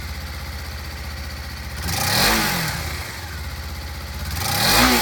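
2015 Suzuki GW250F's 248 cc liquid-cooled parallel-twin engine idling, blipped twice by the throttle, the revs rising and falling about two seconds in and again near the end.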